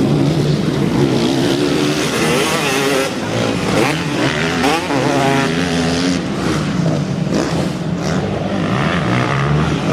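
Several motocross bike engines revving on the track, their pitch rising and falling as the riders open and close the throttle, with one bike's rev climbing and dropping sharply about four to five seconds in.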